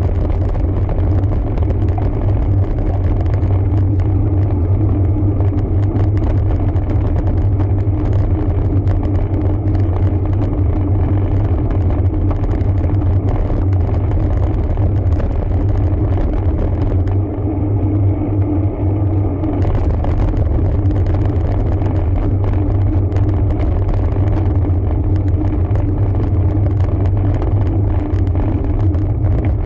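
Steady low rumble of wind and road noise while a road bike is ridden, with faint crackle on the microphone. The high hiss drops away for about two seconds past the middle.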